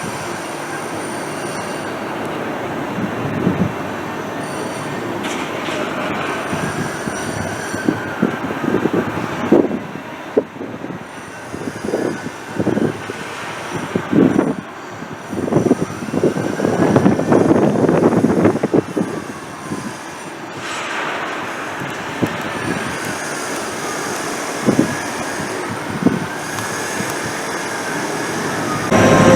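Electric train running on the line, with high whining tones that rise and fall, and a louder stretch of knocking and clatter in the middle.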